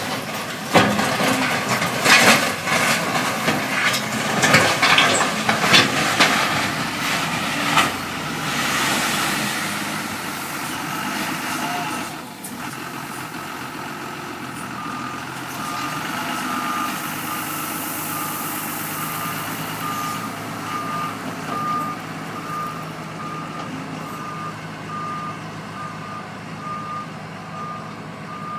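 A load being dumped into a dump truck's steel bed: a run of heavy clattering knocks and thuds for the first eight seconds or so, over running diesel engines. From about halfway a reversing alarm beeps steadily in an even rhythm while the engines keep running.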